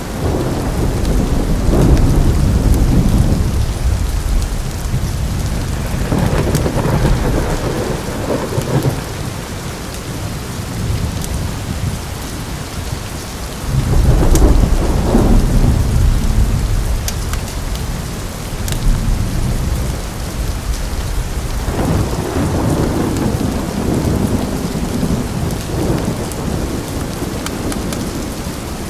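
Heavy rain hissing steadily with rolling thunder rumbling in four long swells. A few sharp crackles of a wood fire pop now and then over the rain.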